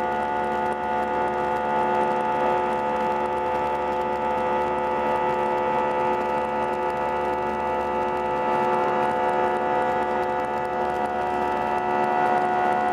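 Airbus A319 jet engines heard as a steady drone from inside the cabin, with a constant rush of noise and several fixed tones.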